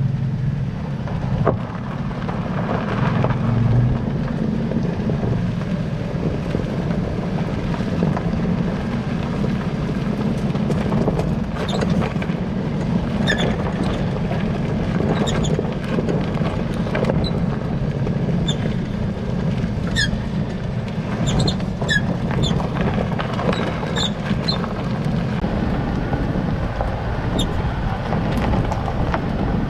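Toyota Land Cruiser Prado 90 running with a steady low rumble, while short high-pitched squeaks from the rear suspension come again and again from about halfway through. The source of the squeak in the rear suspension is not yet known.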